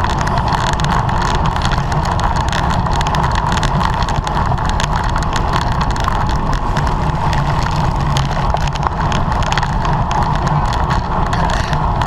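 Steady wind rush over the microphone of a camera on a racing bicycle at speed, with many small clicks and rattles over it.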